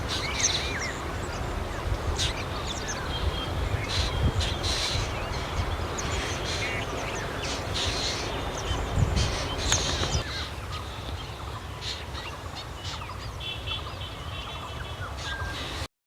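Short chirps and calls from several birds over a steady low rumble; the sound cuts off abruptly near the end.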